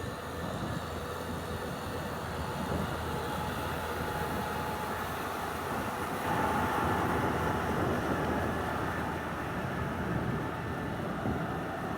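Tractor engine running steadily, growing louder for a couple of seconds about six seconds in.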